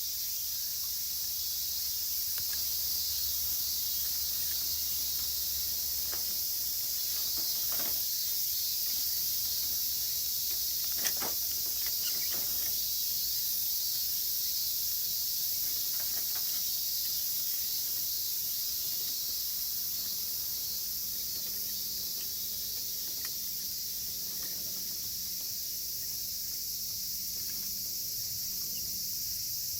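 A dense chorus of cicadas, a steady high-pitched shrilling, with a few snaps and pops from a wood campfire; the sharpest pop comes about eleven seconds in.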